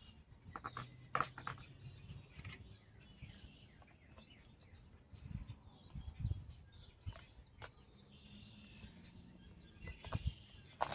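Faint clicks and knocks of sockets being pulled off compact impact wrenches and set down, clustered about a second in and again later on, with birds chirping faintly in the background.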